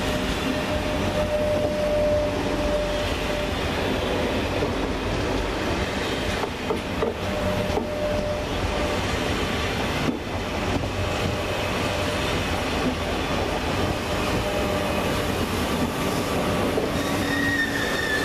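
Coupled TGV trainsets rolling past along the platform: a steady rumble of steel wheels on rail, with faint squeals from the wheels, and a higher-pitched squeal starting near the end as the rear power car passes.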